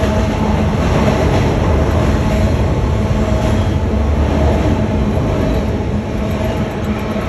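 CSX double-stack intermodal freight train rolling across a railway bridge overhead: a loud, steady rumble of wheels on rail, with a faint steady ringing tone running through it.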